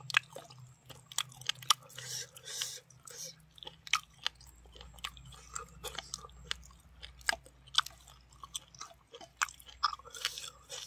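Mouth chewing a hand-fed mouthful of rice and buffalo meat, with irregular crisp crunches and wet mouth clicks.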